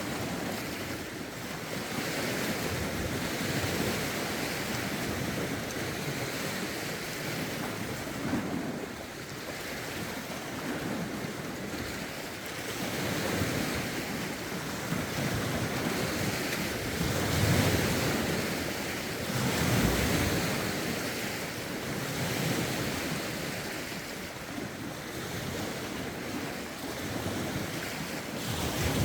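Lake waves washing onto the shore in a rough wind, a continuous rush that swells and eases every few seconds, with wind buffeting the microphone.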